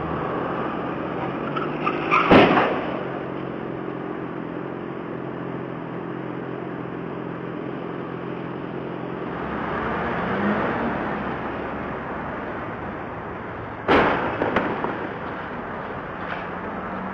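Steady car road and engine noise as picked up by a dashcam. A loud bang comes about two seconds in, and a sharper crash about fourteen seconds in, followed by a brief rattle, typical of vehicle collisions.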